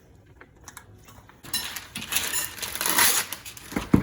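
Kitchen handling noises: a few light clicks, then about two seconds of crinkly rustling, and one low thump near the end.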